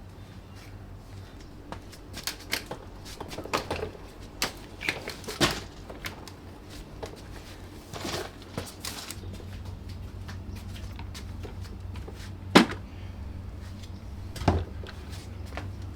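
Objects being handled: a scatter of light clicks and knocks, busiest in the first half, with two sharper knocks near the end, over a steady low hum.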